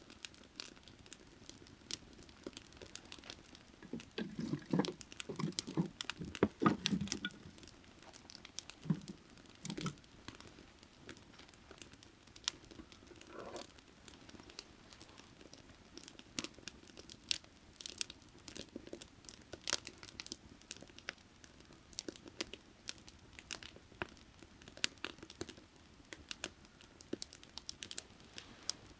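Burning firewood crackling, with frequent sharp snaps and pops and a run of louder, duller pops about four to ten seconds in. A faint steady creek runs underneath.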